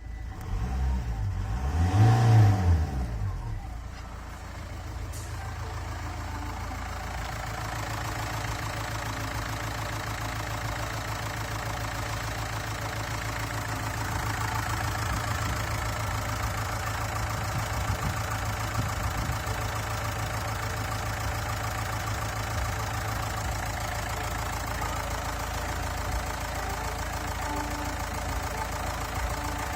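An engine on test revs briefly about two seconds in, its pitch rising and then falling, and settles into a steady idle.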